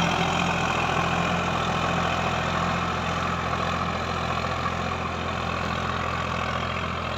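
Sonalika DI-734 tractor's three-cylinder diesel engine running steadily, growing slowly quieter.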